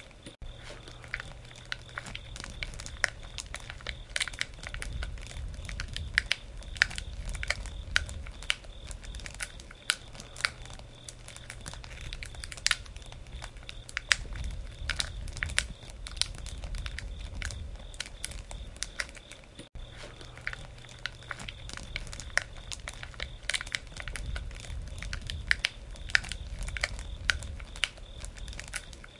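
Wood campfire crackling: irregular sharp snaps and pops over a low, steady rumble of the flames.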